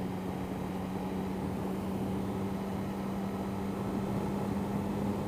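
Triumph Speed Triple's three-cylinder engine running at a steady cruise: a constant drone holding one pitch, with a low rushing noise underneath.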